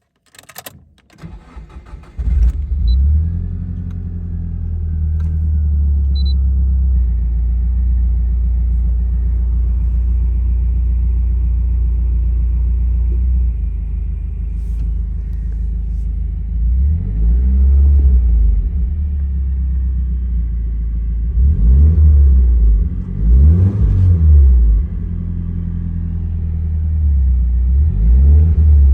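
Nissan Silvia Spec-R's turbocharged SR20DET four-cylinder engine cranked by the starter, catching about two seconds in and settling into a steady fast idle that drops lower partway through. In the second half it is blipped several times in short revs that rise and fall back to idle.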